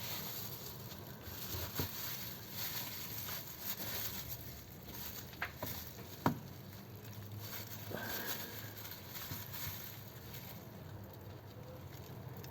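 Gear oil being poured and handled in plastic containers, with rustling and a few sharp plastic clicks; the loudest click comes about halfway through.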